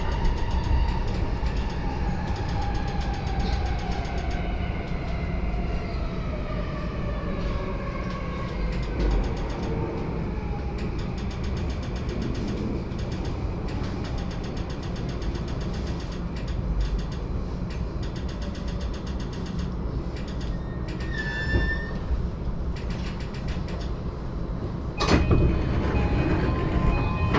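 Electric commuter train braking into a station: the traction motor whine falls steadily in pitch over the first ten seconds under a steady rumble, and the train then rolls quietly to a stop. Near the end a sharp clack, then steady tones, as the sliding doors open.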